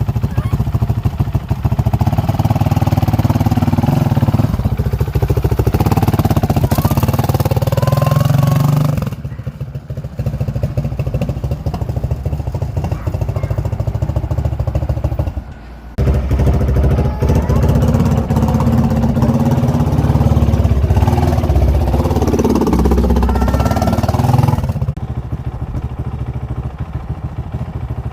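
Motorcycle engine running, loud for stretches and dropping back to a quieter run about nine seconds in and again near the end, with a brief cut-out about fifteen seconds in.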